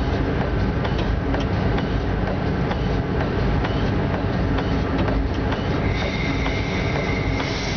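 Running noise inside the cab of an electric locomotive travelling at about 90 km/h: a steady rumble of wheels on rail with scattered light clicks. About six seconds in, a steady high tone comes in and holds.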